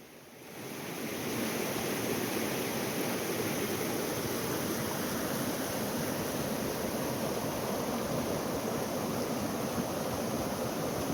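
Small mountain creek running over rocks, a steady rush of water that fades in over the first second or so and then holds even.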